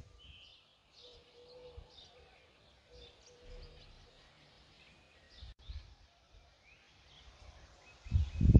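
Faint birdsong: scattered short chirps and calls over soft low rumbles. A loud rush of noise starts near the end.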